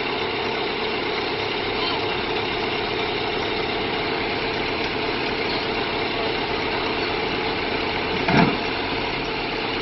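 Heavy engine running steadily at a constant pitch, with one brief louder sound about eight seconds in.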